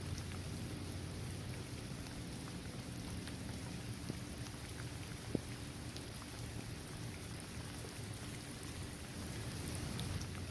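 Steady rain falling on a hard court, trees and grass, with scattered individual drops ticking; one sharper drop about five seconds in.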